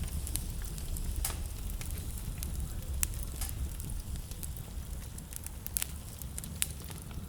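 Wood fire burning in a fireplace, with scattered sharp crackles and pops over a steady low rumble.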